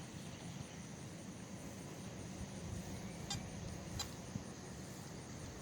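Faint outdoor background: a steady low rumble under a steady high-pitched drone, with two brief sharp clicks about three and four seconds in.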